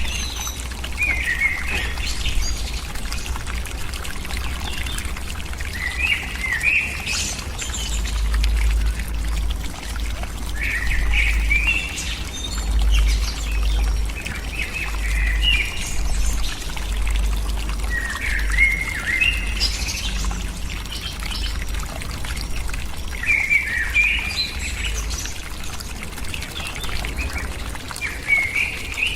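A bird calling in short phrases of quick chirps, repeated about every three to five seconds, over a steady rushing hiss and a low rumble.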